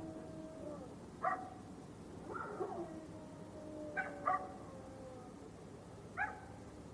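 A dog giving short, sharp barks and yips, a few seconds apart, some trailing off into a long, slowly falling whine.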